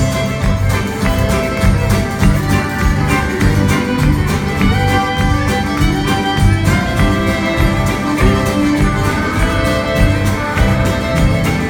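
Cajun band playing live, an instrumental passage with fiddle and guitar over a steady beat.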